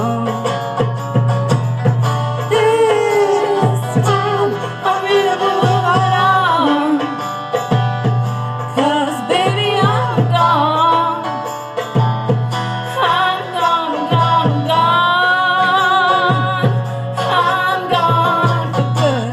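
Band playing an acoustic country-style song: plucked strings and a wavering lead melody with vibrato over a steady bass line.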